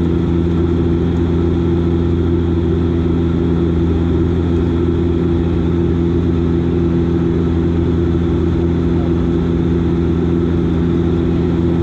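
Steady drone of the Dash 8 Q400's turboprop engines and propellers: a low hum with several steady tones layered over it, unchanging throughout.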